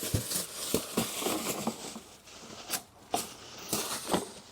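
Trash being gathered up by hand: crinkling and rustling of packaging and paper, with several light knocks and clicks.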